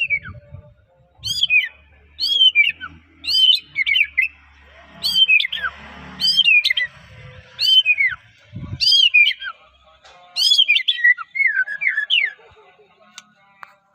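White-rumped shama (murai batu) singing: a series of loud, clear whistles sliding down in pitch, about one a second, breaking into a quicker run of short notes near the end.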